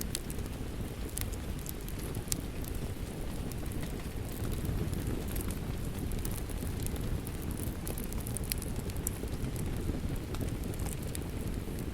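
Wood fire crackling, with irregular sharp pops, over a steady low rush of rain.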